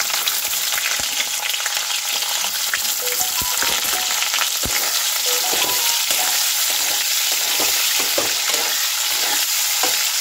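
Paneer pieces frying in hot refined vegetable oil in a kadai: a steady, crackling sizzle, with scattered clicks and knocks of a spatula stirring them.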